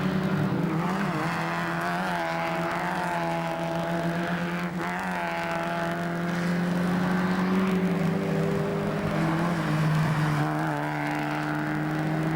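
Mazda MX-5 race car engines running hard, their pitch dropping and climbing again as the revs change through gear shifts, twice in a few seconds.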